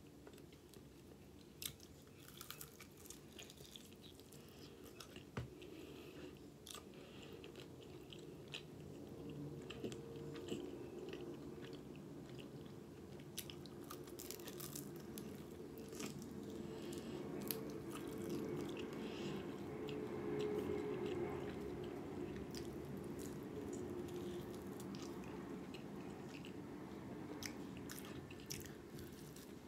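Close-miked chewing and biting of fried chicken wings, with many small sharp mouth clicks. Under it a low, steady hum grows louder toward the middle and then eases off.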